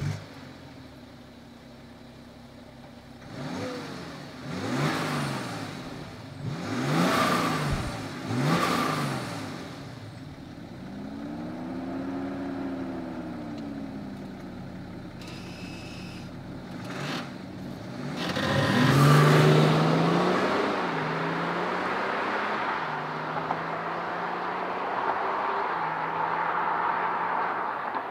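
2013 BMW 530d xDrive's Stage 1-tuned 3.0-litre turbocharged inline-six diesel idling, then revved three times in quick blips and once more slowly. About two-thirds of the way in the car pulls away hard, the engine note climbing and stepping back down several times as it accelerates off and fades.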